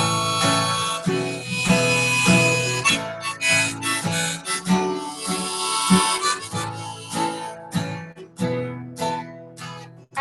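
Harmonica playing a melody of held notes over strummed acoustic guitar, an instrumental break in the song.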